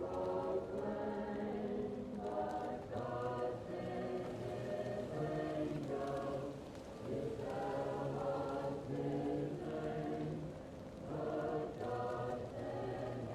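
Choir singing slow, sustained chords in phrases a few seconds long, muffled as if heard from another room, with a faint fireplace crackle underneath.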